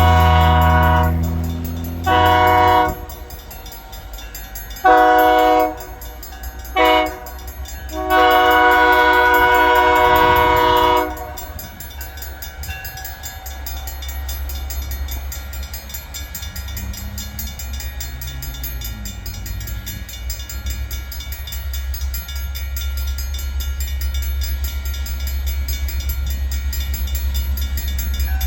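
Locomotive air horn sounding a series of blasts: a long blast trailing off just after the start, another a second later, then long, short and a final long blast that stops about eleven seconds in, the pattern sounded for a grade crossing. After it, the train passes with a steady low rumble.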